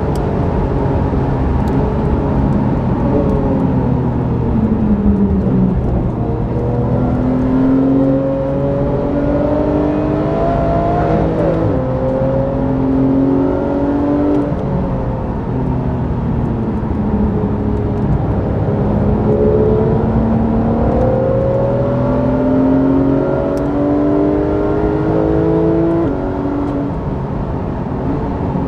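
Porsche 991 GT3's flat-six engine heard from inside the cabin under hard track driving. The pitch climbs under acceleration and drops sharply at an upshift about twelve seconds in, then sinks as the car slows. It climbs again and drops at another shift near the end.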